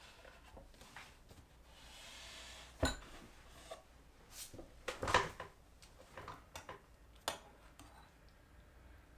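Scattered knocks and clinks of small household objects being handled and set down, with a brief soft rustle before the first sharp knock.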